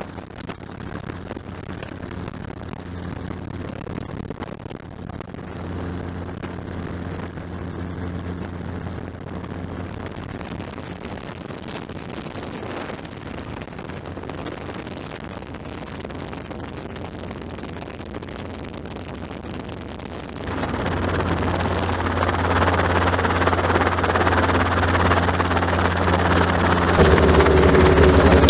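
Helicopter engine and rotor running steadily, a low hum with a steady drone. About two-thirds of the way through it becomes clearly louder and noisier, and it grows louder again near the end.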